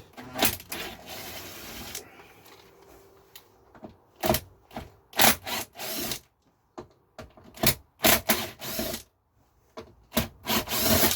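Hand work on the plastic housing of a Lay-Z-Spa pump's flow-switch section as it is opened up: irregular clicks and knocks with a few short rasping scrapes.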